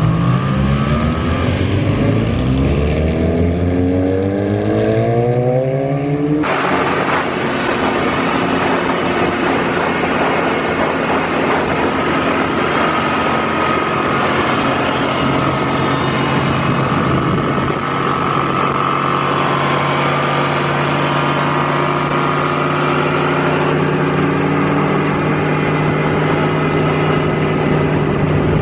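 Large 1970s motorcycle engine accelerating hard, its pitch rising steeply for about six seconds. It then cuts suddenly to a steady engine note under a rushing hiss, the bike running along at a constant speed.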